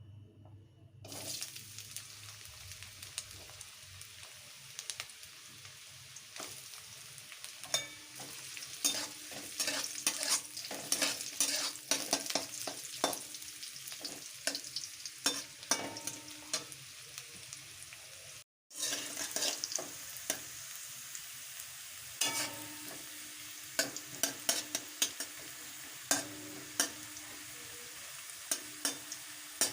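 Food sizzling in a hot pan as it is stir-fried, with a steady frying hiss and frequent sharp clicks of a spatula against the pan. The sound drops out for a moment midway.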